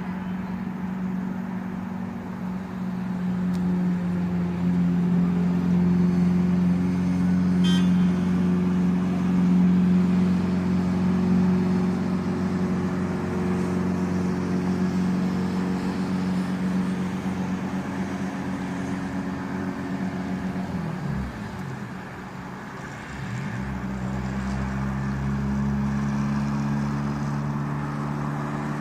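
Motor vehicle engine running steadily. Its pitch falls and then rises again about three-quarters of the way through, with a brief click about eight seconds in.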